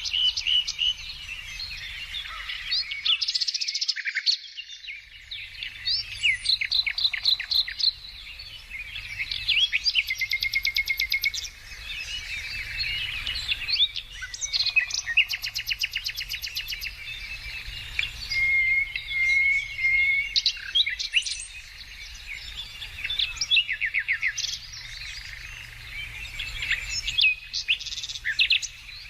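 Several songbirds singing and calling over one another: rapid chirping trills, and a steady whistled note about two-thirds of the way through. A faint low rumble runs underneath and drops out briefly about four seconds in.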